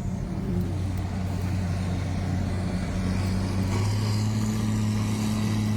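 A motor vehicle engine running steadily under a constant hiss, its note stepping up a little about four seconds in.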